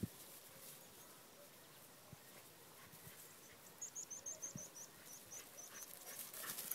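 A small bird gives a quick run of about a dozen high chirps a little over halfway through, over faint outdoor quiet. The dog's feet rustle through the grass near the end.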